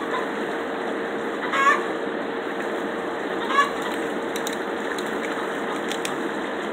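A bird honks twice, short calls about one and a half and three and a half seconds in, over a steady rushing noise. Faint clicks of crab shell cracking come as the crabs are broken apart.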